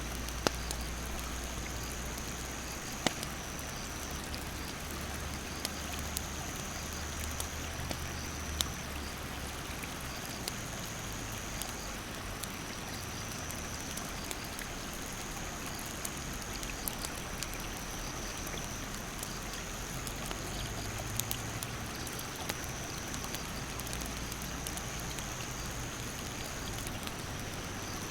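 A rushing mountain stream with a wood campfire crackling in scattered sharp pops, and a steady high-pitched insect drone that steps slightly in pitch every few seconds.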